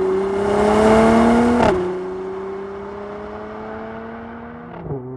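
Mercedes-AMG GLC 43 Coupé's 3.0-litre twin-turbo V6 accelerating, its pitch climbing steadily. It upshifts about one and a half seconds in and again near the end, the pitch dropping suddenly at each shift before rising again.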